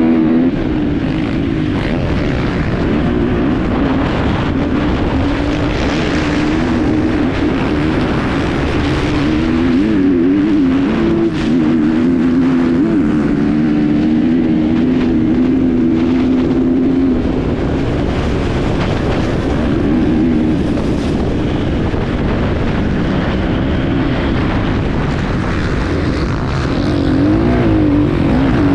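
Enduro motorcycle engine heard on board, the note rising and falling as the throttle is worked, over a steady rushing noise, with a few sharp knocks near the middle.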